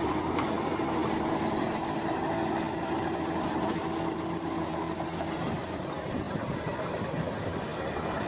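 Heavy earthmoving machinery running steadily, with a held engine tone that fades out about five seconds in and short high squeaks scattered throughout.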